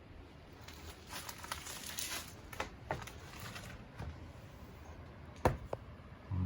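Footsteps scuffing and crunching over debris on a floor, with scattered clicks and one sharp knock about five and a half seconds in.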